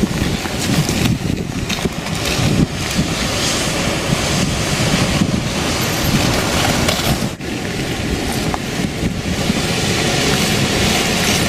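Wind rushing over the microphone, a loud rumbling rush that dips briefly about seven seconds in.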